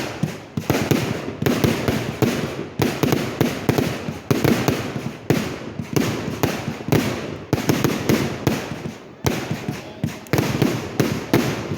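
Fireworks going off in rapid succession: dense volleys of sharp cracks and bangs, one burst after another, about one a second, with only short gaps between.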